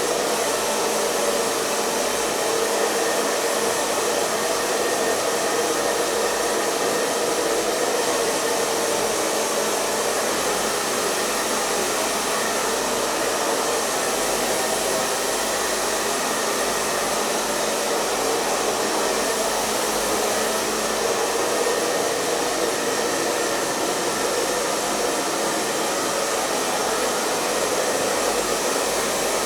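Handheld hair dryer running steadily on a constant setting: an even, unbroken blowing hiss with a hum around its motor pitch.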